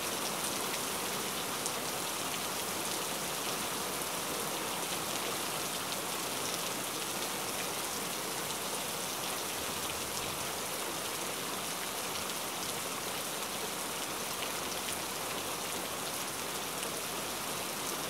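Heavy rain pouring steadily onto a wet flat roof and the trees around it, an even, dense hiss of splashing drops with no letup.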